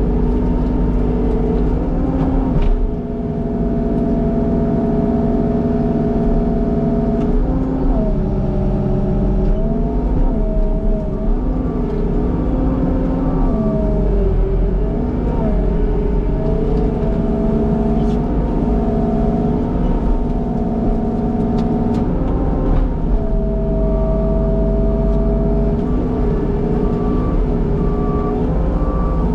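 Skid steer engine running steadily under an operator, its pitch dipping and recovering several times, with a few faint clicks.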